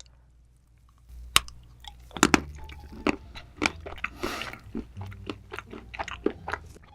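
Close-miked biting and chewing of hard chocolate: sharp crunches start about a second in, the loudest a little after two seconds, followed by irregular crunching chews.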